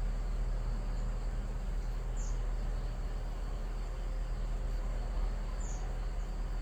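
Steady outdoor insect hum around a hive of Korean native honeybees, with a faint high cricket trill under a low rumble. Two brief high chirps sound about two and five and a half seconds in.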